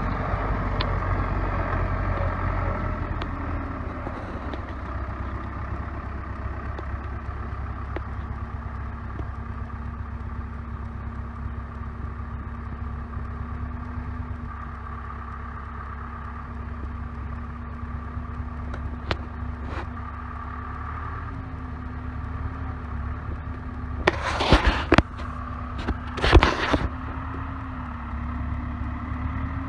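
CASE 580B backhoe's four-cylinder diesel engine running steadily at a constant speed, a little quieter after the first few seconds. Two loud, brief rattling bursts come near the end, a couple of seconds apart.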